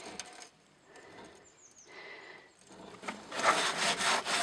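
Quiet at first, then scraping and rubbing noises from handling, starting about three seconds in and growing louder.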